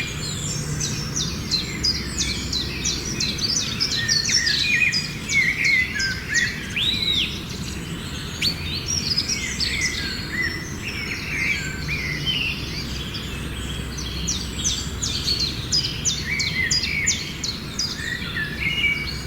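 Many birds chirping and calling at once, a dense chorus of short, quick chirps and trills, over a steady low rumble.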